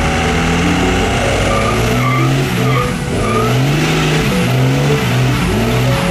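Truck engine revving up and down again and again over a steady hiss of spinning tires, with a few short tire squeals in the middle, as in a burnout.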